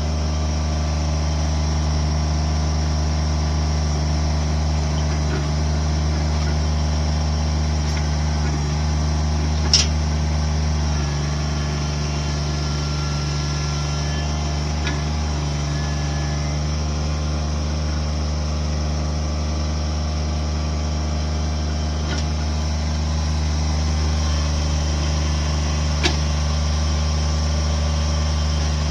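An engine running steadily at constant speed, typical of heavy equipment working to clear land. There is a sharp click or knock about ten seconds in and another near the end.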